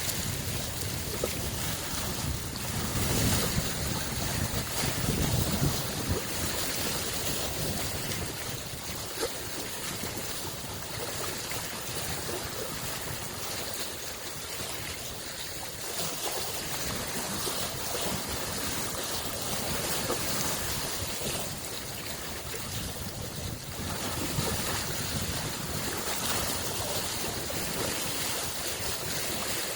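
Small lake waves washing against the shore in a continuous wash, swelling louder about three to six seconds in and again in gentler surges later.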